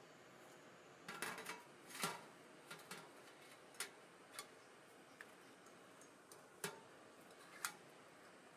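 A scattered series of sharp, irregular clicks and light taps over a faint steady hiss, bunched together near the start and then spaced out.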